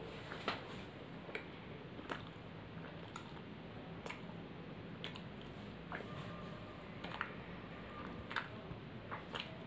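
Someone chewing a mouthful of paratha and soybean curry: soft wet mouth smacks and clicks at an irregular pace, roughly one a second, over a low steady room hum.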